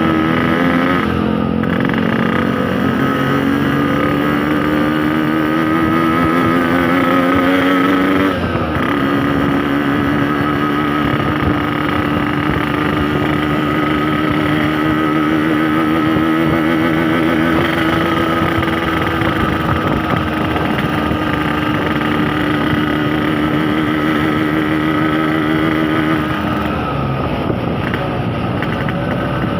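Yamaha RX-King's 135cc two-stroke single-cylinder engine under way: it rises in pitch for about eight seconds, breaks off briefly at a gear change, then climbs to a steady cruising pitch. The throttle eases off near the end.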